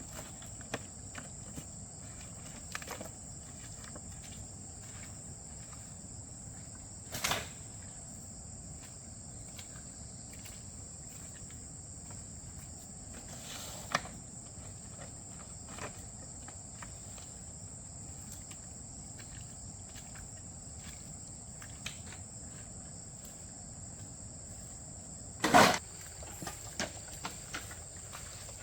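Steady high-pitched insect chirring throughout, with scattered light knocks and clatters. Sharper knocks come about a quarter and halfway through, and the loudest comes near the end, followed by a few smaller ones.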